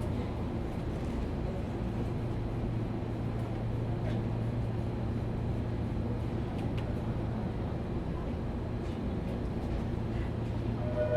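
Steady low hum inside a Sotetsu New 7000 series electric train car standing at a station, with a few faint clicks and no traction motor sound.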